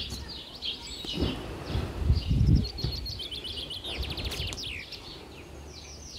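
Small songbirds chirping and twittering, with a fast trill about four seconds in, and a few soft low thumps about one and two seconds in.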